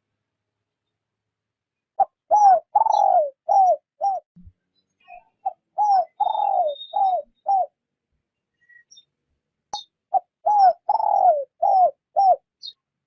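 Decoy spotted dove cooing in three phrases of five or six short coos each, every coo dipping in pitch, with pauses of a couple of seconds between phrases.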